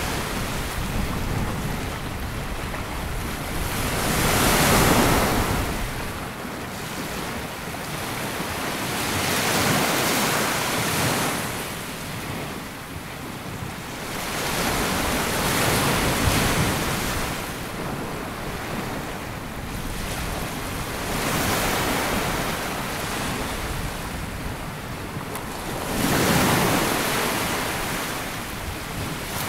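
Sea waves breaking and washing up a sandy beach, a swell of surf every five to six seconds with a steady hiss of water between, and some wind rumble on the microphone.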